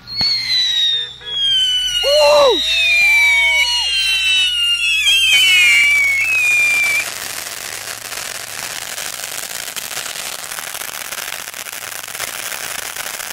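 Consumer fireworks going off: several shrill whistles, each falling in pitch, sound together over the first seven seconds. Then a steady, dense crackle of many small reports follows.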